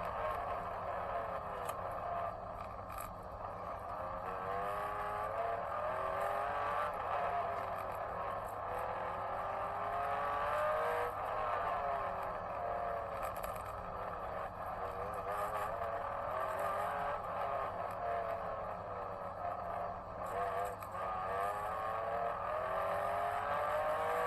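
Small racing engines running laps on a circuit, their pitch repeatedly climbing under acceleration and dropping off for corners, with several engines overlapping.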